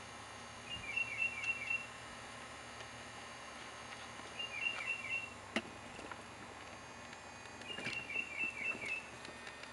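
A songbird singing a short phrase of about five quick repeated notes, three times a few seconds apart. A single sharp click sounds about halfway through.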